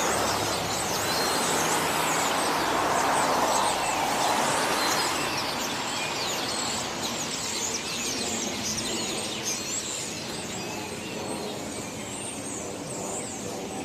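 A large flock of small birds chirping continuously, many short overlapping calls. A passing car rushes by in the first few seconds, swelling and then fading about halfway through.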